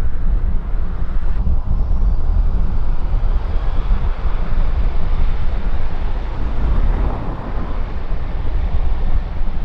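Jet airliner engine rumble mixed with wind buffeting the microphone, with a faint high engine whine coming in about halfway through.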